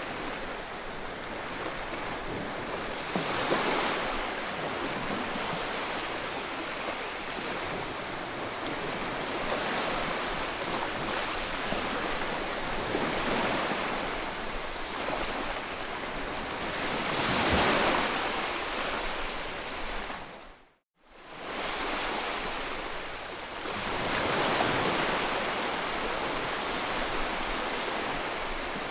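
Sea waves washing onto a shore: a continuous surf hiss that swells into a louder breaking wave every several seconds. About two-thirds of the way through, the sound dips out for an instant and comes straight back.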